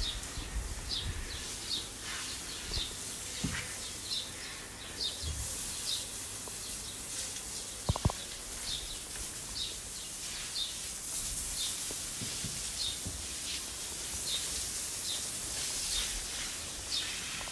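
A bird chirping over and over, a short high chirp about once a second, over a steady hiss. A single sharp knock about eight seconds in.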